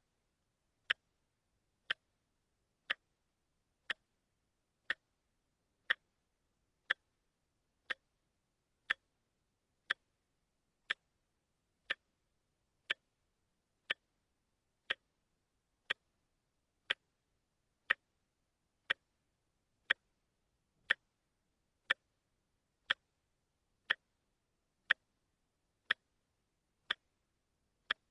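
Watch ticking steadily, one sharp tick each second, with silence between the ticks.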